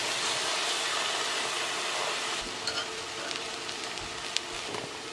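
Sweet corn sizzling in butter in a small cast-iron skillet over a gas flame, a steady hiss that starts suddenly and eases a little about halfway. It is being stirred with a metal spoon, which clicks once against the pan near the end.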